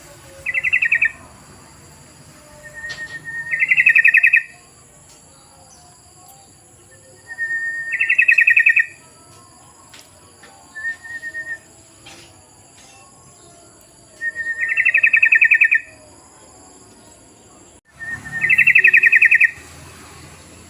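Yellow-vented bulbul (trucukan) singing: about six short, rapid bubbling phrases, each often opened by a brief steady note and repeated every three to four seconds. This is a lure call used to set other trucukan singing.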